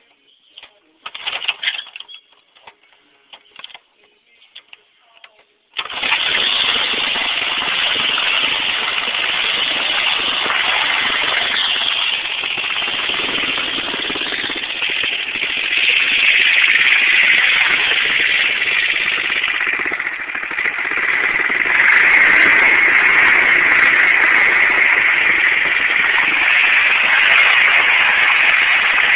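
Tecumseh 3.5 hp single-cylinder four-stroke engine being cold-started. After a few seconds of scattered clicks and a short burst, it catches suddenly about six seconds in and keeps running. Later it rises in speed twice.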